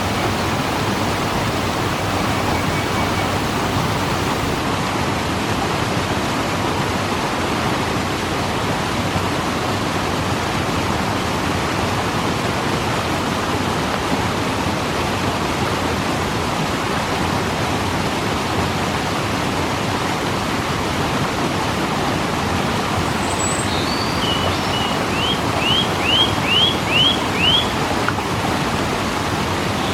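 Waterfall rushing steadily in an even, unbroken wash of water noise. Near the end, a run of about six quick, high chirps sounds over it.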